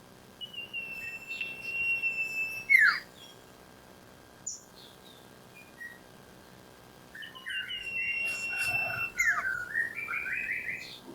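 Iora (sirtu) singing: two phrases, each a long steady whistle that ends in a sharp downward-sliding note, with a few short calls between them and a quick run of notes after the second.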